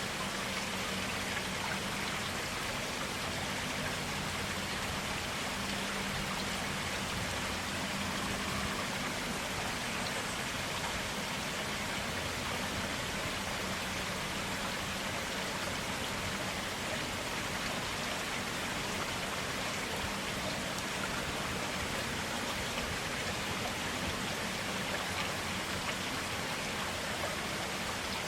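Stream water flowing and splashing steadily, an even rush that does not change.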